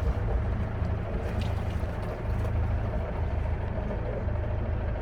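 Boat engine running steadily under way, a constant low hum.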